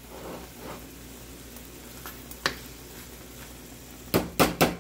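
Chilaquiles (tortilla pieces in red sauce, topped with cheese) sizzling softly in a stainless steel pan on the stove. A single click comes about halfway through, and near the end there is a quick run of four sharp clacks.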